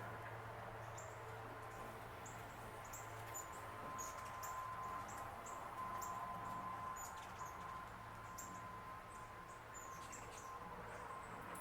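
Small birds chirping: short, very high-pitched notes, several a second, over a faint steady hum.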